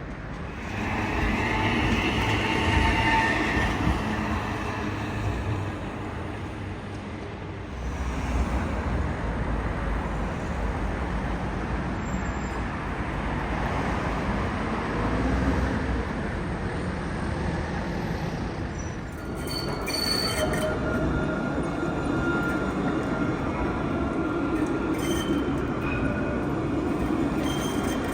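Tram running over its rails with a steady rumble. High wheel squeal sounds in the first few seconds, and a thin whine comes in about two-thirds of the way through.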